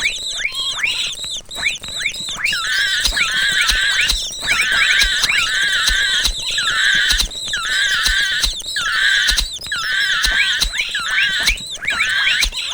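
Mouse squeaking sound effect: rapid high-pitched squeaks and falling chirps, in bursts with short breaks about once a second.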